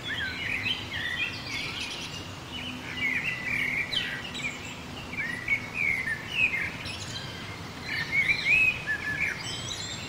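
Birds chirping, many short high calls overlapping throughout, with busier bursts of calling about four and eight seconds in.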